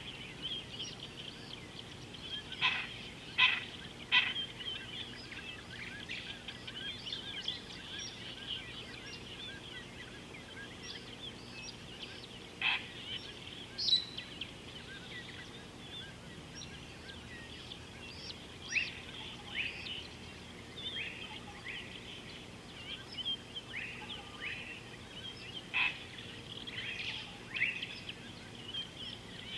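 Wild birds calling in a steady chorus of high chirps and twitters. Loud, sharp calls stand out now and then: three in quick succession a few seconds in, and more in the middle and near the end.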